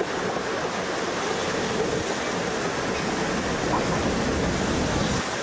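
Narrow-gauge steam railway carriage running along the track, a steady dense rumble of wheels and running gear heard from on board.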